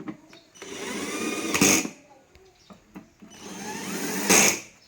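Two bursts from a small motorised tool, each about a second and a half long, with a pitch that rises as it speeds up before cutting off.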